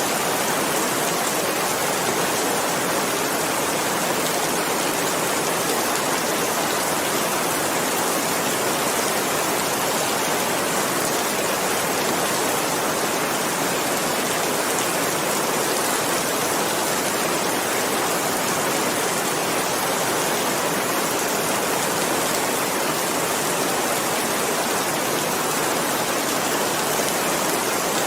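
Steady heavy rain, an even hiss of dense drops with no breaks or changes.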